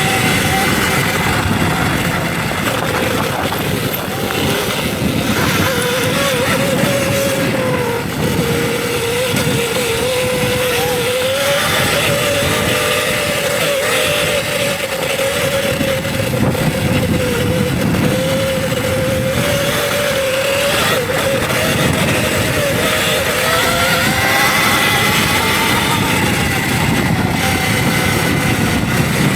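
Electric dirt bike's motor whining under riding, its pitch wavering up and down with speed and rising near the end, over a steady rushing noise.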